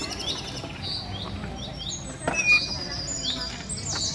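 Small birds chirping, many short high chirps repeating quickly and overlapping. A sharp knock stands out a little over two seconds in.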